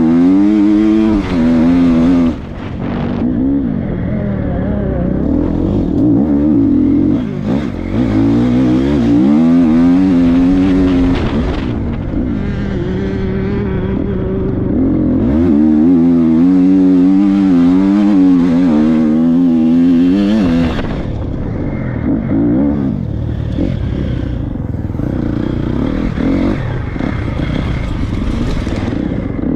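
Triumph 250 motocross bike's four-stroke single-cylinder engine being ridden hard, its pitch rising and falling over and over as the throttle is worked, with the throttle shut briefly a few times.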